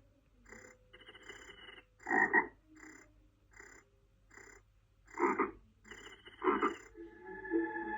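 Frogs croaking in a steady series of short croaks, well under a second apart, with a few louder croaks standing out. Soft music with long held tones fades in near the end.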